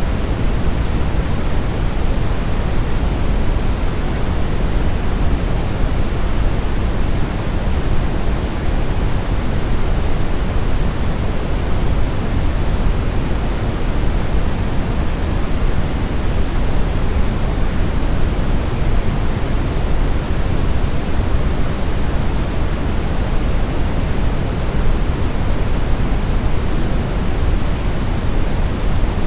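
Continuous brown noise: a steady, even rushing hiss weighted heavily toward deep low frequencies, with no change or events.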